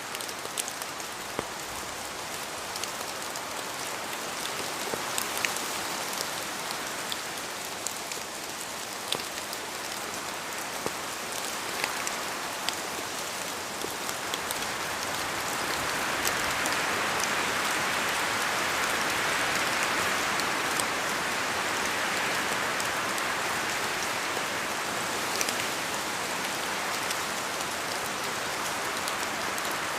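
Steady rain falling through trees, with scattered sharp ticks of single drops from the leaves. It swells louder about halfway through and eases a little near the end.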